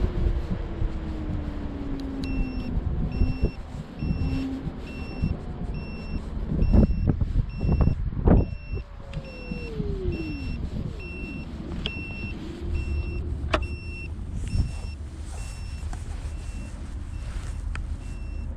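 Street traffic noise with whining vehicle tones that fall in pitch, the longest falling glide about halfway through. A high electronic beep repeats about twice a second from about two seconds in, like a reversing alarm.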